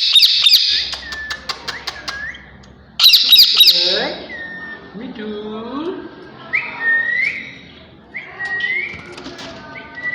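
Indian ringneck parrots screeching loudly, two harsh bursts about three seconds apart, with short rising whistled notes between and after them.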